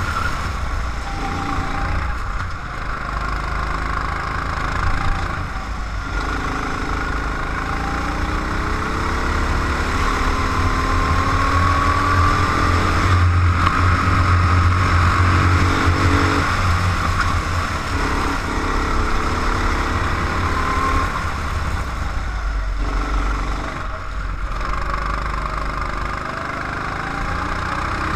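Go-kart engine heard onboard, running continuously and rising and falling in pitch as the kart accelerates out of corners and slows into them.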